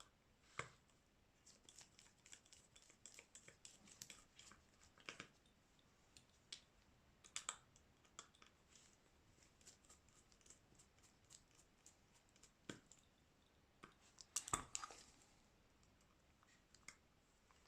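Faint, irregular small clicks and scratches of hand tools and plastic parts being worked on a Xiaomi Redmi 9A smartphone during a screen replacement, with a louder cluster of clicks about fourteen seconds in.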